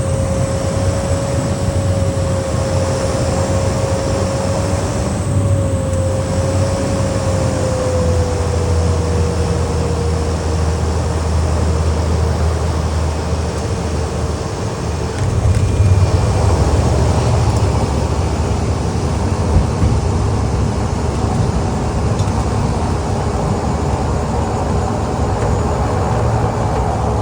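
Cabin noise of a Cessna Grand Caravan's single Pratt & Whitney PT6A turboprop during landing: a steady propeller drone with a whining tone that slides slightly lower about eight seconds in. The noise grows a little louder about halfway through, and there is one brief thump a few seconds later.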